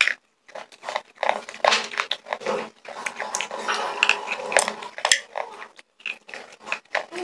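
Slate pencils being bitten and chewed close to the microphone: an irregular run of sharp crunches with brief pauses.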